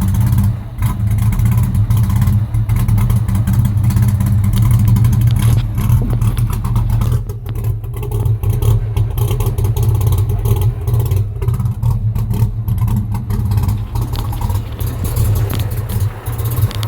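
2001 Ford Mustang's 3.8-litre V6, fitted with an SVT supercharger, idling steadily while warming up after a cold start.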